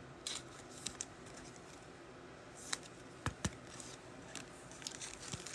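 Trading cards being handled at a table: faint scattered clicks and taps, with two sharper ticks in quick succession a little past the middle.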